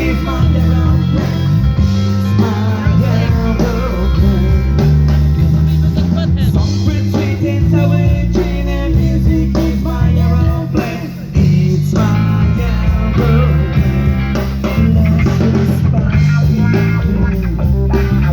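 Live rock band playing an instrumental funk-rock passage, with a prominent bass line and electric guitar over drums. The band drops back briefly about eleven seconds in.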